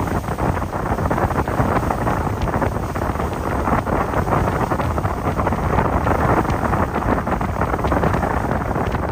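Steady wind buffeting the microphone aboard a moving boat: a dense rushing roar without any clear engine tone.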